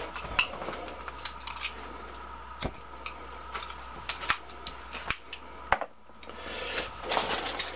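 Scattered light metallic clicks and taps of a lightweight camping cook set and alcohol stove being handled, about a dozen over several seconds, over a faint steady hum.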